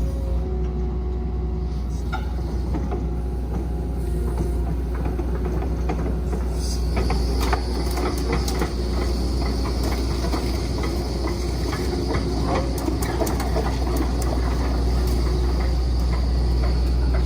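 Kobelco SK135SR-2 excavator running, its engine a steady low drone. From about six seconds in there is a string of metallic clicks and knocks, and from about seven seconds a steady high whine joins it.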